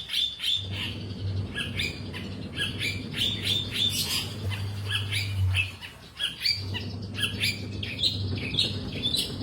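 Long-tailed shrike (cendet) singing busily: a fast, dense run of short, harsh, scratchy notes with barely a pause. A low hum runs underneath and drops out briefly about six seconds in.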